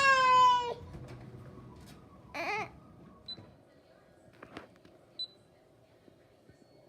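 A young child wails, a long high cry that ends under a second in, then gives a short second cry about two and a half seconds in. Two faint short electronic beeps follow.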